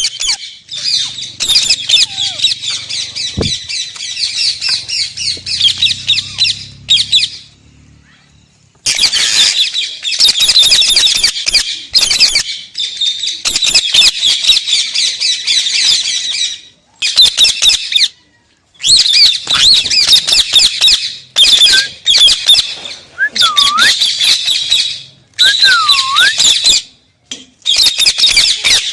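Parrot squawking loudly in long runs of rapid, harsh calls, broken by a few short pauses, with some short whistled glides in the second half.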